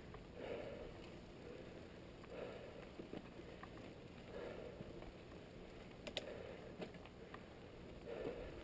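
Muffled mountain-bike riding noise: a soft puff of breath about every two seconds, with a few sharp clicks and rattles from the bike.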